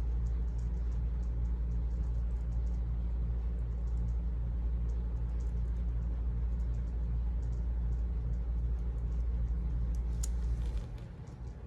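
A low steady hum with a slight regular pulse just above it, which cuts off suddenly near the end. Over it come faint, light scratchy ticks of colouring on paper through a stencil, with one sharper click just before the hum stops.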